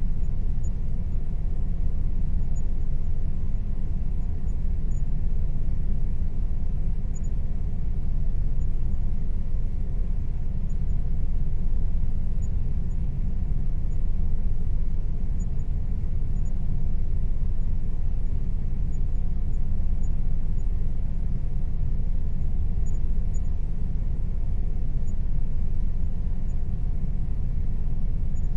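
Air conditioner running steadily: an even low rumble with a faint steady hum above it.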